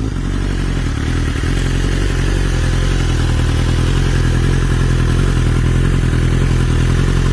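BMW S1000RR's inline-four engine idling steadily through an Akrapovič exhaust.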